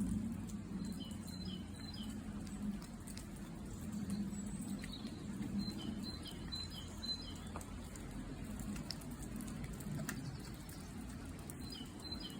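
A small songbird calling in groups of short, high repeated chirps, three times, over a steady low rumble.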